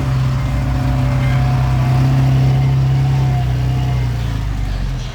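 Diesel engine of heavy earthmoving machinery running steadily at a constant pitch, easing off about four seconds in.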